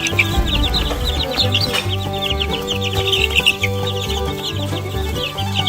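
A brood of two-week-old Barred Rock chicks peeping constantly, many short high chirps overlapping. Background music with a steady bass line runs underneath.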